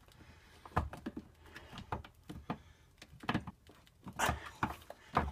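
Irregular small clicks and knocks of a screwdriver and plastic valve parts being worked by hand, as a screw on the diverter valve fails to catch and drive in.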